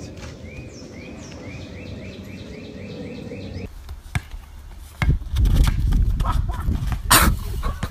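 A bird calling in short repeated chirps, about four a second, over a steady outdoor hum. About four seconds in this gives way to a basketball bouncing and a few sharp thumps on an asphalt court, the loudest a little before the end.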